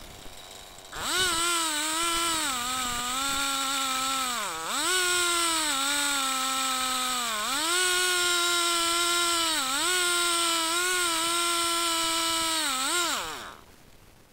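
Two-stroke chainsaw revving up about a second in and running at high speed. Its engine note dips briefly four times, as though bogging under load, and it cuts off near the end.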